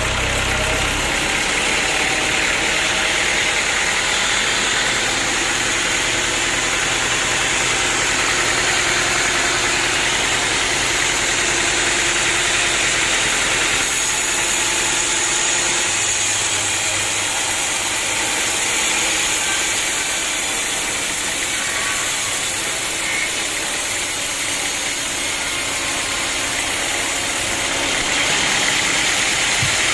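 Sawmill machinery running steadily: a continuous motor drone with a strong hiss over it, holding level throughout.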